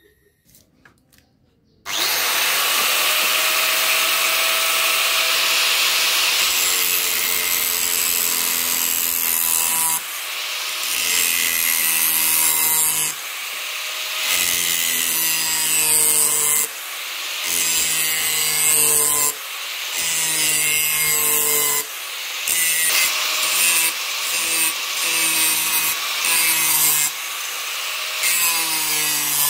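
Electric grinder working the steel of a chainsaw bar. It starts suddenly about two seconds in and runs steadily, its motor pitch sagging under load. In the second half it eases off briefly every second or few as the tool is lifted and set back on the metal.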